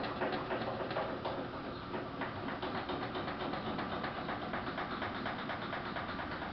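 Samsung VRT WF448 washing machine running, a steady rapid rattle.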